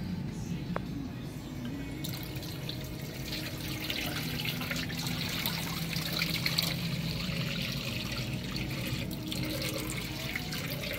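Water running from a bathroom sink tap, setting in as a steady hiss about two seconds in, over a low steady hum.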